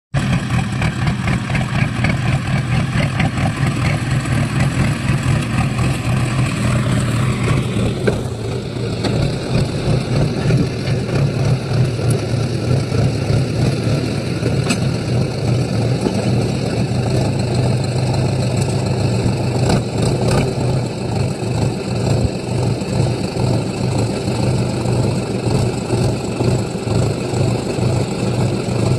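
Sonalika tractor's diesel engine running with a steady low pulsing beat. A higher-pitched whine over it drops away about eight seconds in.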